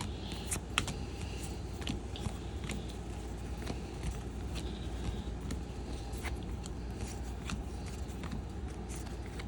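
Trading cards being flipped through by hand: scattered light clicks and flicks of card stock sliding against card, over a steady low hum.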